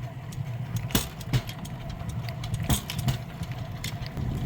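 A rail bike's steel wheels rolling along old jointed track: a steady rumble, with a pair of sharp clacks about every two seconds as the front and then the rear wheels cross each rail joint.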